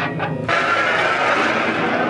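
Loud live grind/noise band music. About half a second in, the drums and distorted guitar give way to a dense, unbroken wall of distorted noise.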